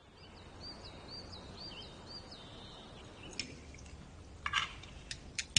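A small bird chirping, a quick run of about seven short chirps in the first two seconds, over a faint steady background. In the second half come a few light clinks of chopsticks against bowls.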